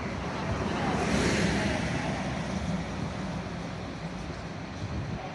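A road vehicle passing: engine and tyre noise that swells about a second in, then slowly fades.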